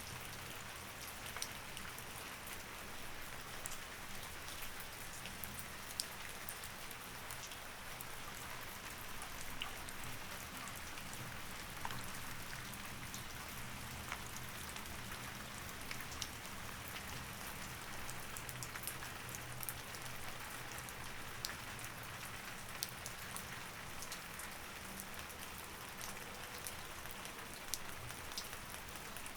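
Steady rain with many separate drop ticks scattered throughout, over a faint low steady hum.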